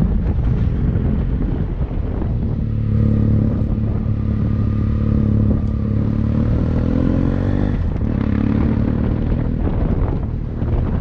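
Motorcycle engine under way, its pitch climbing slowly for several seconds, breaking off briefly about eight seconds in and then climbing again, over heavy wind buffeting on the microphone.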